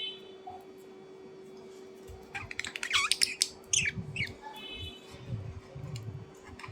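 A bird's chirps and squawks in quick clusters, starting about two seconds in, mixed with light clicking and tapping.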